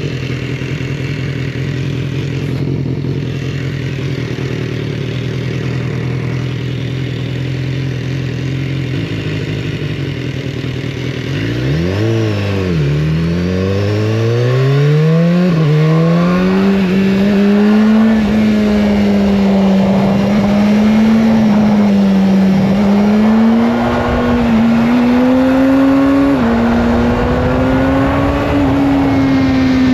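BMW S1000R inline-four motorcycle engine with its stock exhaust, running at steady revs, then accelerating hard about twelve seconds in with several quick upshifts, each a rising pitch that drops back. After that it holds higher revs, rising and easing off a little.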